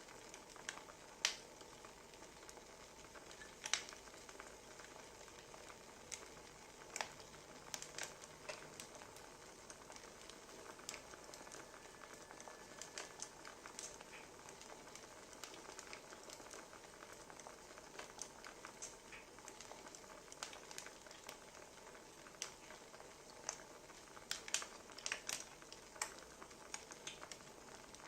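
Crackling wood fire: a soft steady hiss with scattered sharp pops and snaps, coming in a quicker cluster near the end.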